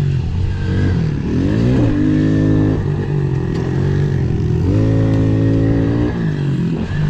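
Pit bike engine revving under throttle: the pitch climbs about a second in and holds, dips, then climbs and holds again near five seconds before falling back.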